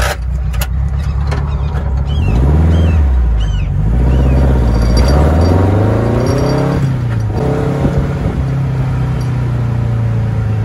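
The engine of a 1969 Barris Mini T dune buggy, built on a Volkswagen pan, pulling away under acceleration. It rises in pitch about two seconds in, rises again more steeply, drops sharply near seven seconds at a gear change, then runs steadily.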